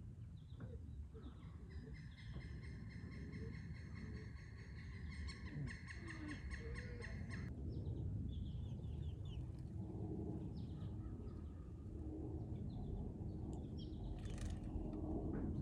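Birds calling: a steady high piping call that turns into a rapid pulsing before stopping abruptly after about six seconds, then scattered short chirps, over a constant low rumble.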